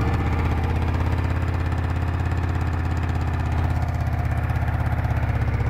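Honda PC800 motorcycle's V-twin engine idling steadily.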